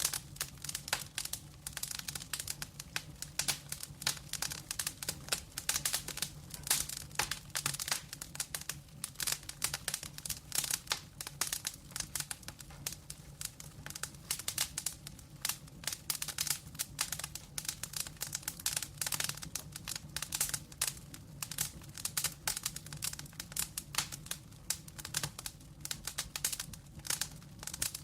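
Wood fire in a fireplace, logs burning with dense, irregular crackling and popping over a low steady rumble.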